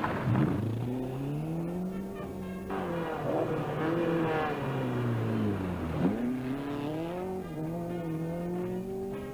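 Rally car engine accelerating hard through the gears. The note climbs, then drops sharply at each gear change, about three seconds in and again about seven seconds in. Near the six-second mark it falls away steeply and picks up again.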